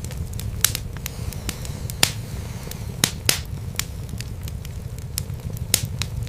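Wood fire burning in a fireplace: irregular sharp crackles and pops over a steady low rumble of the flames, with the loudest pops about two and three seconds in.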